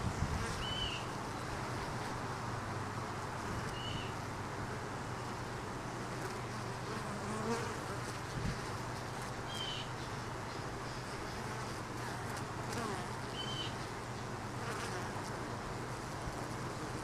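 Honey bees buzzing in a steady drone around an opened hive. Short high chirps come through four times.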